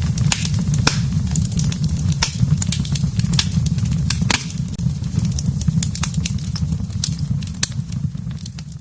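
Fire in a fireplace crackling, with frequent sharp pops over a steady low rumble of the flames.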